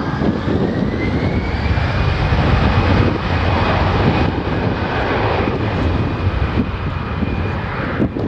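An airliner's jet engines run with a high whine that rises in pitch over the first couple of seconds and then holds steady, over a heavy low rumble.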